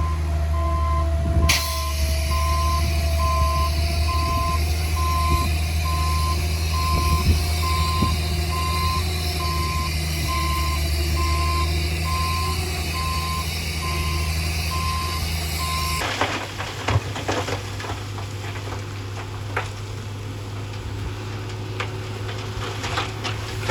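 A heavy construction vehicle's reversing alarm beeping steadily at about one and a half beeps a second over its diesel engine running. About 16 seconds in the beeping stops, the engine sound drops lower, and scattered knocks and clatters follow.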